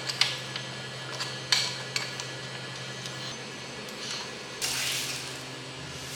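Light clinks and taps of small hard objects, several in the first two seconds, over a steady low hum, then a short hiss about four and a half seconds in.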